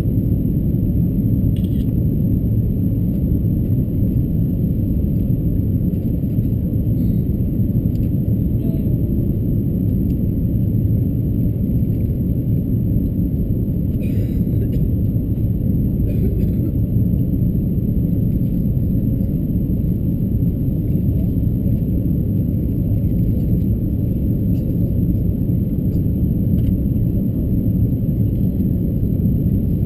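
Steady low rumble of an Airbus A330-223 airliner cabin in flight, with the engine and airflow noise even throughout. A few faint ticks sound over it, around two seconds in and near the middle.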